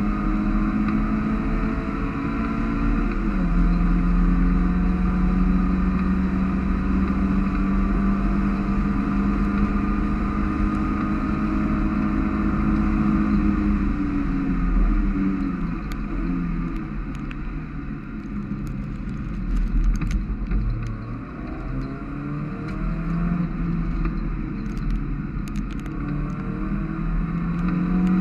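Mazda MX-5 race car's four-cylinder engine heard from inside the cockpit at speed on a wet track. Its note drops suddenly about three seconds in with an upshift, then holds steady. About halfway through it steps down through downshifts and runs lower and uneven, rising again near the end as the car accelerates.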